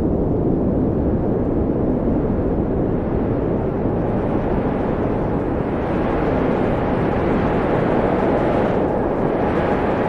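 Wind blowing steadily as a deep, even rush, with a faint whistling tone over it. The wind swells a little brighter in the second half.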